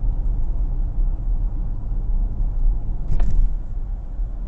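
Steady low rumble of a moving vehicle, with a single sharp click a little past three seconds in.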